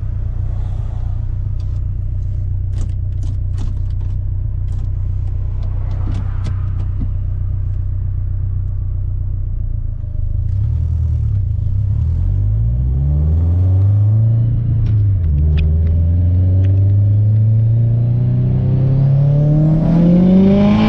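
Turbocharged Subaru STI flat-four with a Cobb titanium exhaust running under way: a steady low drone with a few sharp clicks, then about ten seconds in it pulls hard, revs climbing, dropping briefly at a gear change, and climbing again to the end.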